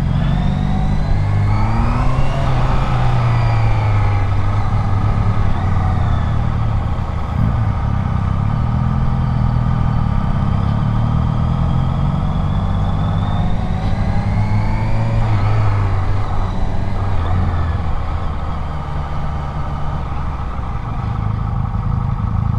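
Honda motorcycle's engine running under way, rising in pitch as the bike accelerates about two seconds in and again about fourteen seconds in, then settling back to a steady cruise.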